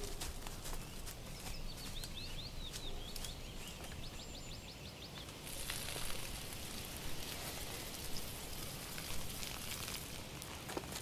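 A small songbird singing faintly over steady outdoor ambience: a few quick chirps, then a rapid trill. About halfway through, a brighter hiss like wind in the leaves swells for a few seconds.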